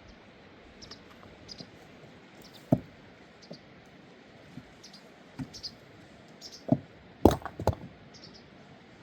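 Scattered, irregular knocks and light clicks: a sharp knock about three seconds in, then a cluster of louder knocks around seven seconds.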